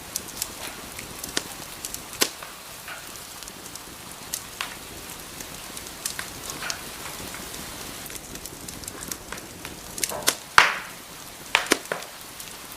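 Wood fire crackling and popping over a soft steady hiss, with irregular sharp snaps and a louder cluster of pops about ten seconds in.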